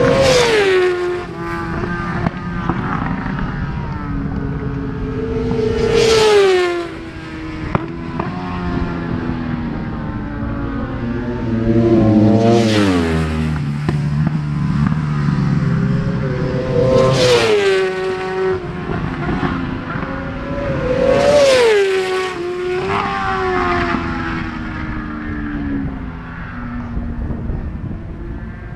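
World Superbike racing motorcycles passing at speed one after another, their engines at high revs. Each pass grows louder and drops in pitch as it goes by, about five times.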